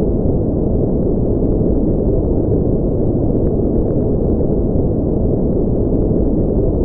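Continuous synthetic noise for sleep and relaxation, steady and unchanging, deep and rumbling with no high hiss.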